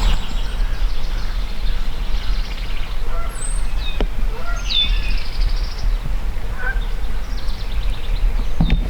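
Songbirds calling: a few short, sharp notes that drop in pitch, around the middle, over a steady low rumble.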